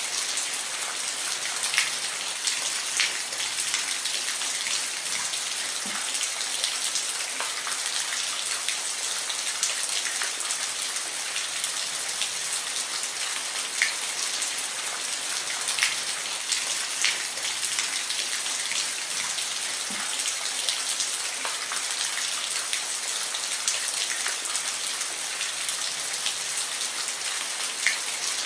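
Steady rainfall: an even hiss with scattered louder drops ticking on a surface.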